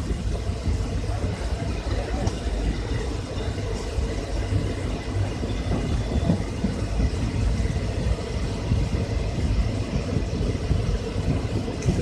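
Steady low rumble of passenger coaches rolling past on the neighbouring track, steel wheels running on the rails.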